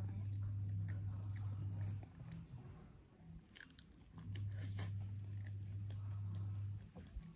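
Close-miked eating of boiled yam and fresh coriander leaves: wet chewing and biting with scattered crisp crunches and mouth clicks. A low steady hum runs for about two seconds at the start and again for about two and a half seconds midway.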